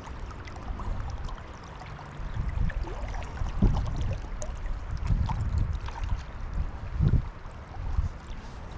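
Fast river water rushing, with irregular low thumps and sloshing close to the microphone that grow stronger about two and a half seconds in.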